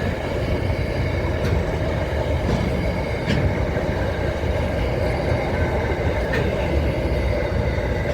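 Train running on the rails: a steady low rumble with a few faint clicks.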